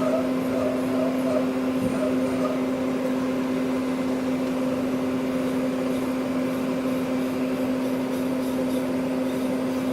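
Citizen M20 CNC Swiss-type lathe running, a steady hum held at one pitch with a few fainter higher tones over it.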